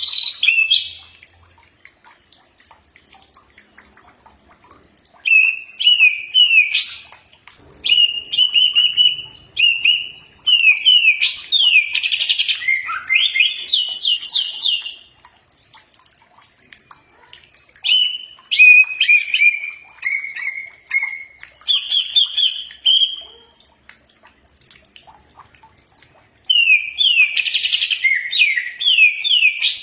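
Green leafbird (cucak ijo) singing loud phrases of quick, sweeping whistled notes, in about five bursts with gaps of a few seconds between them.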